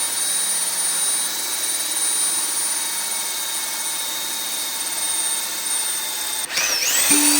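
Makita 8406 diamond core drill running steadily, a high-pitched whine over an even grinding hiss. About six and a half seconds in, music with gliding and plucked notes takes over.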